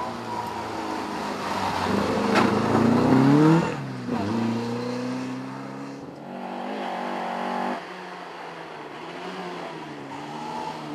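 Ford Escort RS 2000 Mk1 rally car's four-cylinder engine revving hard under acceleration, its pitch climbing and then dropping sharply at gear changes. The loudest pull comes a few seconds in; the engine is quieter near the end.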